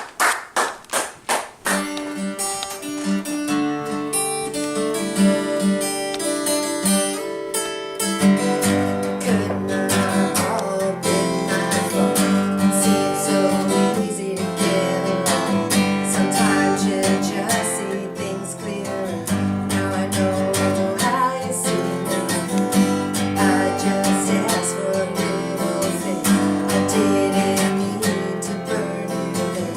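Acoustic guitar playing the opening of a song: sparse chords at first, turning to fuller strumming about eight seconds in.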